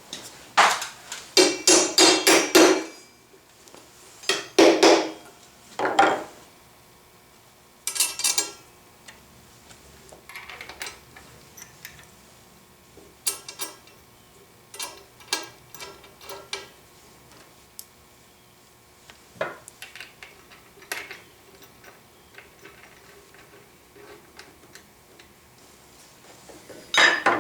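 Welded steel support brackets and their bolt hardware clanking and clinking as they are handled and fitted together, with loud ringing clanks in the first several seconds, then lighter scattered clicks and taps.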